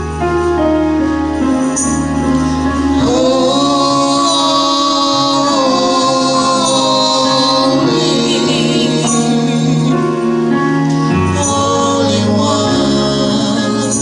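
Gospel song with singing: voices drawing out long, wavering notes over steady instrumental accompaniment and a bass line.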